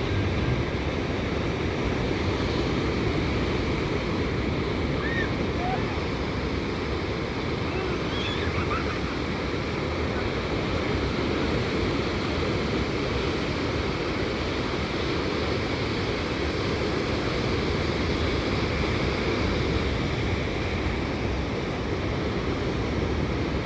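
Gentle surf of a flat-calm ocean washing on a sandy beach, a steady low wash with no big breaking waves. A few faint short chirps come through a few seconds in.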